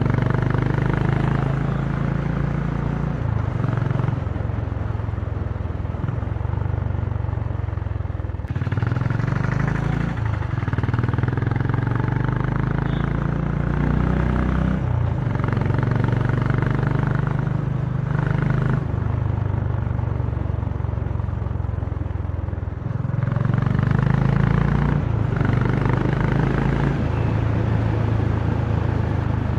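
Honda CB350 motorcycle engine and exhaust running while riding, heard from the rider's seat. The engine note steps up and down in pitch several times as the throttle and gears change.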